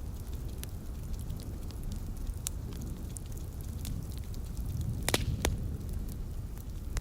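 Wood fire crackling in a fireplace: scattered sharp pops over a low, steady rumble, with a quick run of louder pops about five seconds in.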